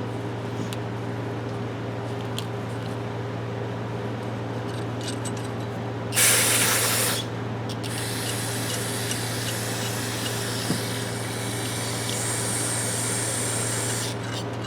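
Aerosol spray cleaner sprayed into an adjustable wrench in one loud burst of about a second, some six seconds in, followed by a fainter hiss lasting several seconds. A steady low hum runs underneath.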